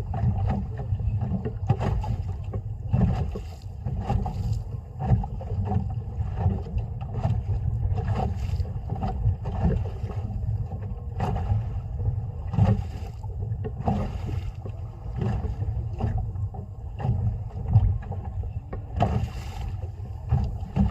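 Small boat rocking at sea: water slaps and knocks against the hull at irregular intervals over a steady low rumble of wind on the microphone.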